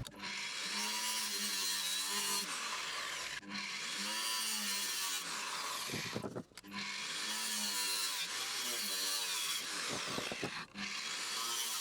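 Angle grinder cutting through seized steel bolts on a water pump housing, its pitch wavering as the disc bites, in stretches broken by short pauses about three and a half, six and a half and ten and a half seconds in.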